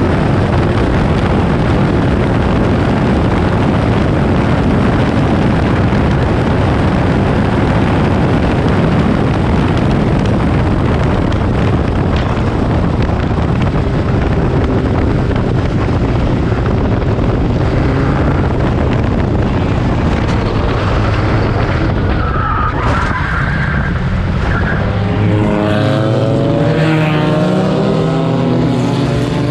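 Race cars on a circuit, heard under a loud, steady rush of noise. Near the end, several engine notes glide up and down as cars pass.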